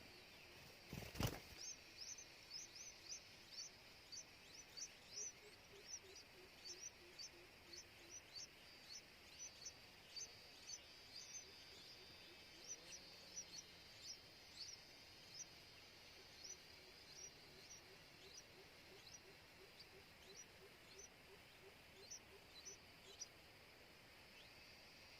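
Faint, repeated high chirps of a bird calling, each a quick downward sweep, about two a second, with a faint hiss of background around them. One sharp knock about a second in is the loudest sound.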